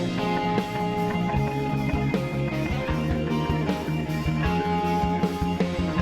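Instrumental rock music: electric guitar and bass over a steady, driving drum beat.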